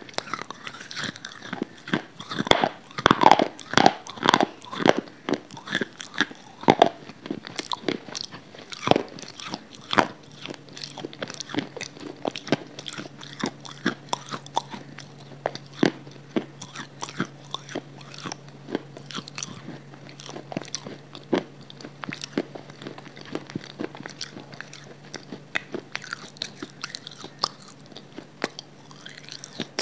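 Close-miked chewing and mouth sounds: crisp crunching bites for the first several seconds, then softer, sparser wet chewing clicks. A faint steady low hum comes in about a third of the way through.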